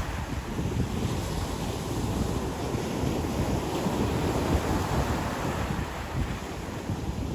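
Ocean surf washing onto a beach after a wave has broken, a steady rushing wash, with wind buffeting the microphone.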